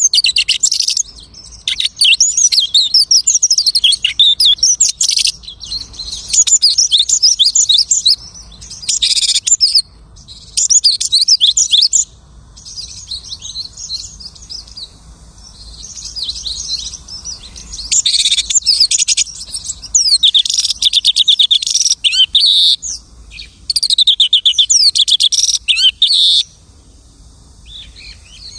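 A lark singing a long, varied song of fast chirps and trills, mimicking other birds' calls, delivered in phrases of one to three seconds with short pauses between them.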